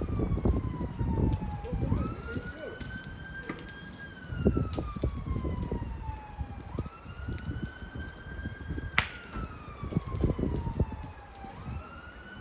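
Emergency vehicle siren wailing: it climbs quickly, holds, then falls slowly, about once every five seconds. Underneath are crackling and popping from a burning truck, with one sharp crack about nine seconds in.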